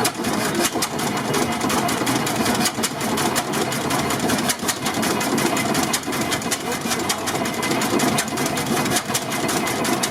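1927 Eagle 40 hp tractor engine running steadily, a fast, busy clatter of many rapid knocks.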